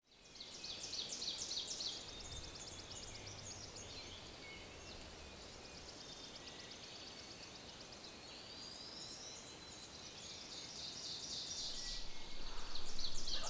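Several songbirds singing at once in spring woods: rapid high trills and quick repeated notes, overlapping one another, louder in the first couple of seconds and again near the end.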